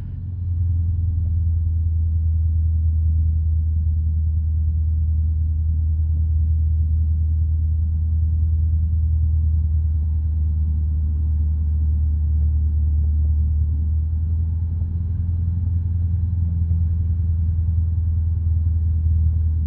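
Single-engine light aircraft's piston engine running steadily at low power while taxiing, a steady low drone.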